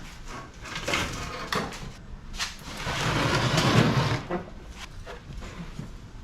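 Metal parts of an air-conditioning unit being handled during dismantling: several sharp clanks and knocks, then a longer scrape of metal sliding against metal from about three seconds in to just past four seconds.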